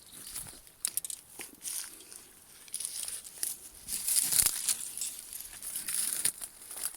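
Irregular rustling and crackling with scattered sharp clicks, getting busier and louder about three seconds in.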